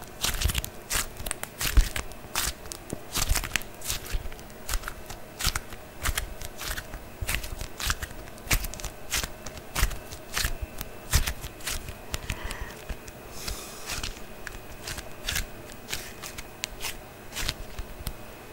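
Close-miked ASMR trigger sounds: an irregular run of crackling clicks and snaps, several a second.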